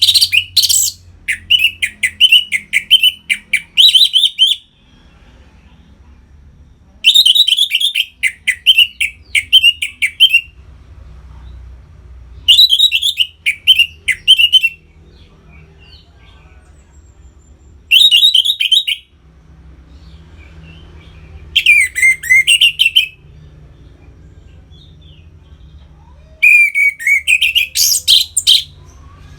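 Orange-headed thrush (anis merah) singing in loud, full 'ngeplong' song: six phrases of rapid, varied whistled notes, each a second or a few seconds long, with pauses between them. A faint low hum runs underneath.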